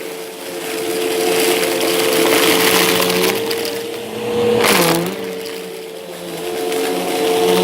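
Bissell vacuum cleaner running with a steady motor whine while its brushroll crunches and crackles over debris, the crunching swelling and easing. About five seconds in there is one sharp crack and the motor tone briefly dips.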